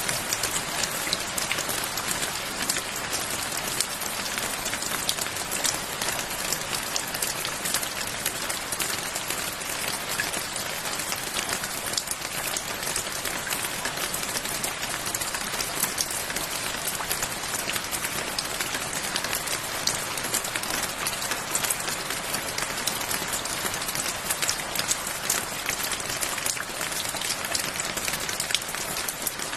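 Steady rain: a constant hiss with many sharp individual drop clicks close by, and no thunder.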